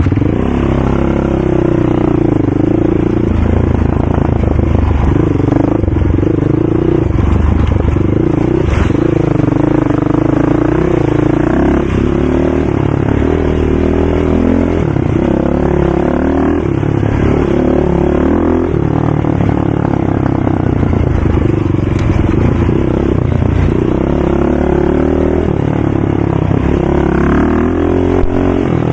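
ATV engine running under load and revving up and down repeatedly, its pitch rising and falling every few seconds.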